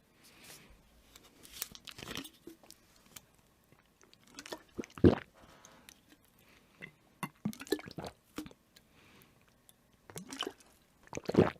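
Close-miked mouth sounds of someone drinking: scattered small wet clicks and swallows, with a louder gulp about five seconds in and another just before the end.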